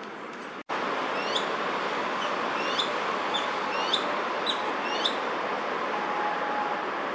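Crested goshawks calling back and forth at each other in a territorial squabble: a run of about seven short, shrill, hooked calls over a couple of seconds, over a steady hum of city traffic.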